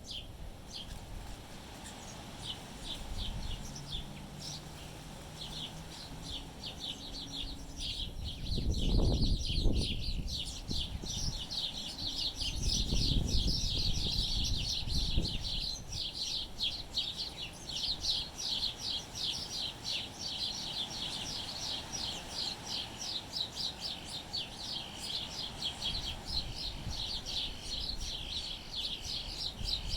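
Small birds chirping in a dense, rapid twitter that grows busier after the first third. Wind gusts buffet the microphone twice, about nine seconds in and again a few seconds later.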